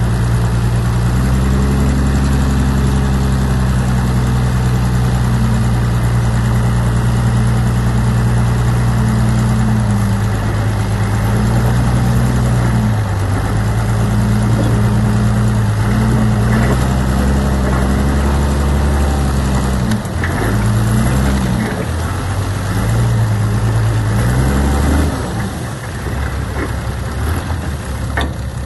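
Heavy diesel engine of earthmoving machinery running steadily, its pitch dipping and recovering a few times as the load changes; near the end the engine note drops away, leaving a rougher, lower-level noise.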